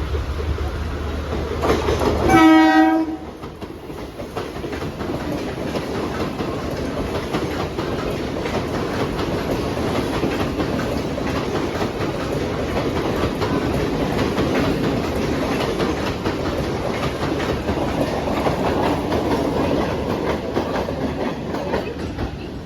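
Mumbai suburban local train sounding a short horn blast about two seconds in. It then runs along the platform with a steady rumble and wheels clattering over the rail joints, easing off near the end.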